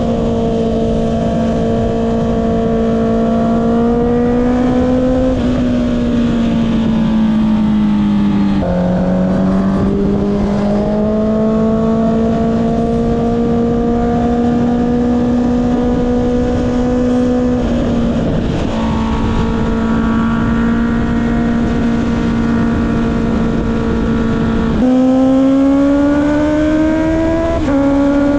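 Honda CB650R's inline-four engine through an Akrapovic exhaust, ridden at steady mid-to-high revs. The note holds level for long stretches and steps suddenly up or down in pitch a few times as gears change.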